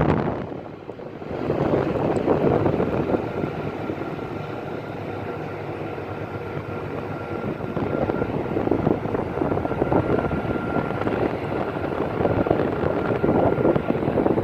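Boeing 747-436 jet engines (Rolls-Royce RB211-524H) running: a steady thin whine over a broad, loud noise, which dips briefly about a second in.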